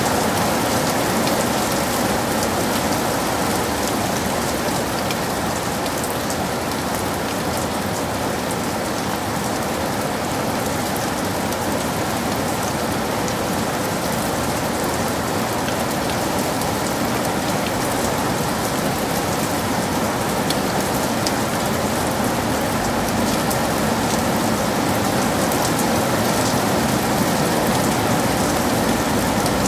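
Heavy rain falling steadily: a dense, even hiss with countless fine drop ticks.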